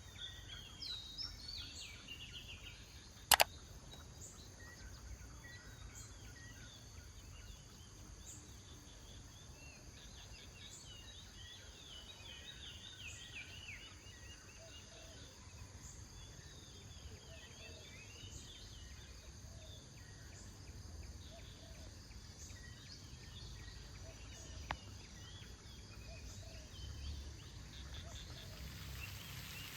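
Tropical rainforest ambience: many birds chirping and calling over a steady high insect drone. A single sharp, loud click comes about three seconds in.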